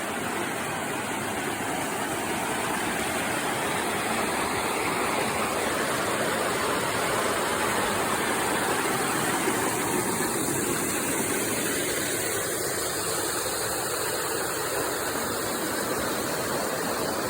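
Fast-flowing creek water rushing steadily over rock at a small falls.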